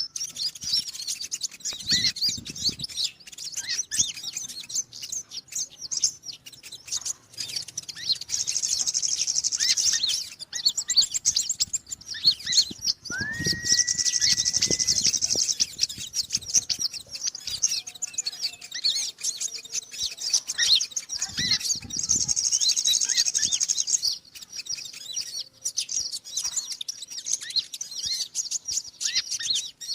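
Konin small-bird lure recording: rapid high chirping and twittering, with longer buzzy trills every several seconds and one clear whistle that rises and then holds about thirteen seconds in. A few soft low thuds sound under the calls.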